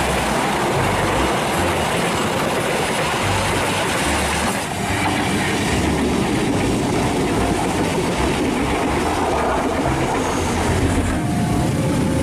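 Passenger trains passing close by on the rails: the steady running noise of railway cars and wheels on track. The sound changes abruptly about four and a half seconds in and again near the end as one passing train gives way to another.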